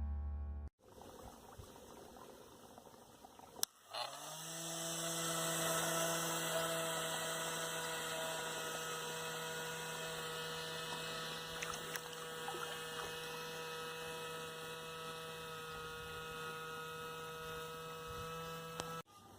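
Small electric motor of a homemade air boat, with its propeller, switching on with a click about four seconds in. It spins up quickly to a steady hum over a hiss of air, runs evenly, and cuts off suddenly near the end.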